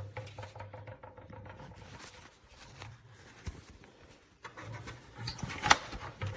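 Rustling, scraping and small clicks of a paper vacuum bag and the vacuum's plastic bag compartment being handled, with a sharper click about three quarters through.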